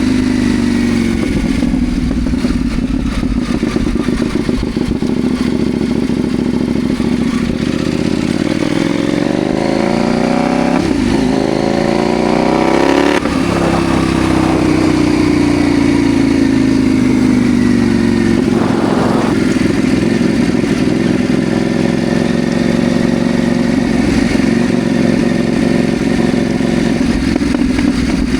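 CFMoto Ibex 800 T's parallel-twin engine running under way, its pitch climbing and dropping as the rider changes speed and gears about halfway through, with wind rush on the bike-mounted microphone.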